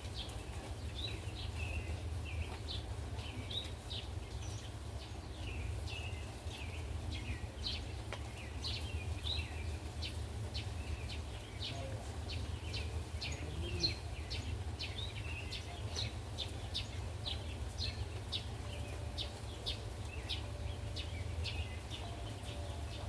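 Small birds chirping rapidly and repeatedly, several short high chirps a second, over a steady low rumble.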